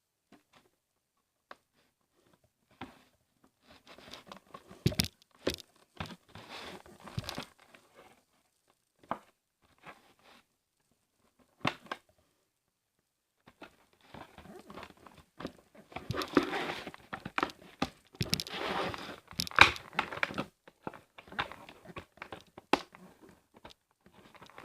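Doll packaging being handled and pulled apart: crinkling plastic and tearing, with scattered clicks and snaps between quiet gaps, busiest in the second half.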